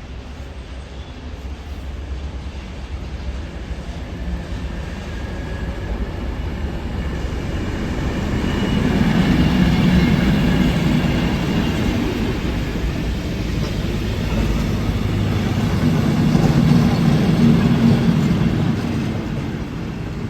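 A train running past, its rumble building to a loud peak about halfway, easing a little, then peaking again before fading slightly near the end.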